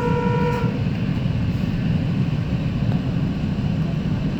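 A train horn note that cuts off just under a second in, over the steady low rumble of a GO commuter train rolling along, heard from on board.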